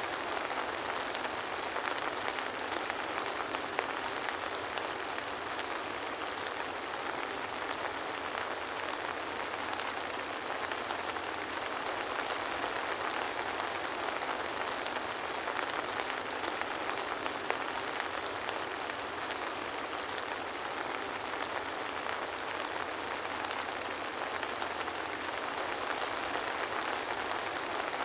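Soft, steady rainfall: an even hiss of rain with scattered fine drop ticks and no thunder.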